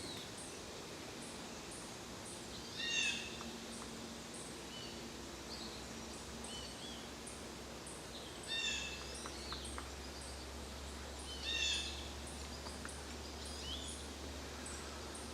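Wild birds calling outdoors: three louder, harsh, downward-sliding calls several seconds apart, with softer chirps between. Insects give a steady high pulsing about twice a second throughout.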